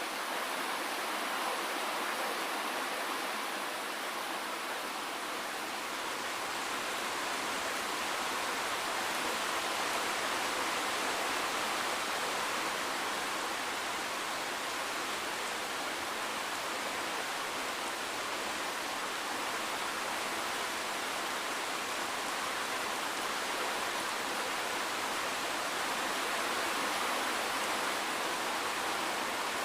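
Steady rainfall: an even hiss of rain with no distinct drops, thunder or changes in level.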